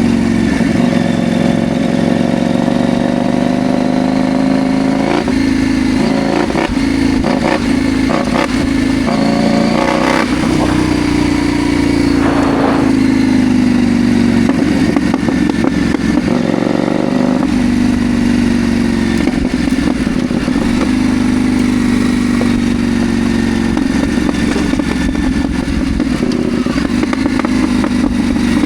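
CFMoto Ibex 800 T motorcycle's parallel-twin engine running under way, its pitch easing down and rising again with the throttle. A run of clattering knocks comes between about five and thirteen seconds in.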